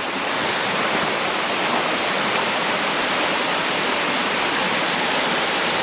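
Mountain creek water rushing steadily, where a small side stream runs into the creek.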